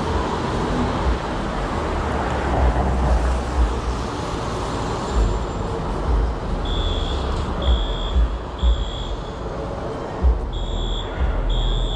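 City street traffic noise with a low rumble. From about halfway through, a high electronic beeper sounds in short beeps roughly once a second, with one brief pause.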